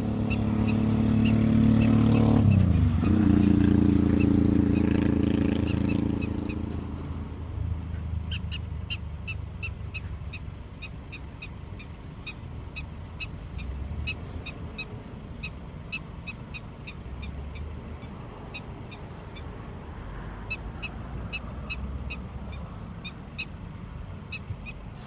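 Prairie dog barking: a long run of short, high chirps, about two to three a second, that stand out clearly once the engine fades. A vehicle engine runs loudly for the first several seconds, its pitch dipping briefly about three seconds in.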